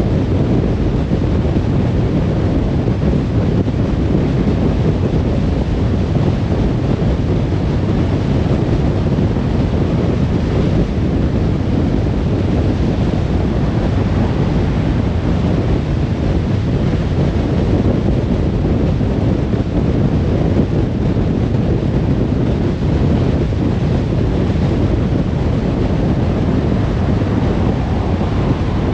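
Steady low rumble and rush of a car driving: road, tyre and wind noise, even throughout.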